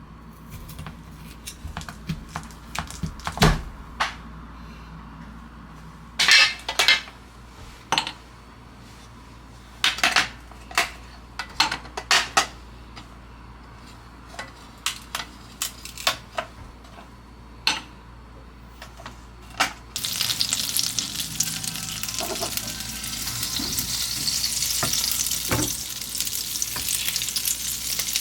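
Kitchen utensils clinking and tapping against dishes and pans, in scattered single knocks. About two-thirds of the way through, food starts sizzling in a hot pan with a steady frying hiss.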